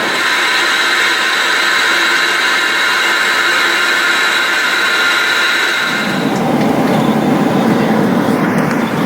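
Boeing 777-200 jet airliner noise heard from the cabin: a steady engine whine with high tones for about six seconds, then a sudden change to a deeper, rougher rumble.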